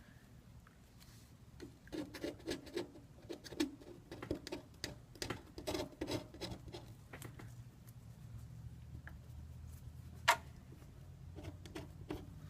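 Light tapping and scratching of hands and small tools working on an iPad 2's frame and parts: a quick run of small ticks and scrapes, then one sharper click, over a low steady hum.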